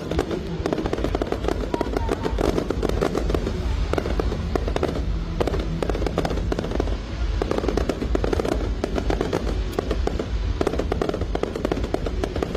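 Aerial fireworks display: a continuous run of bangs and dense crackling from shells bursting overhead.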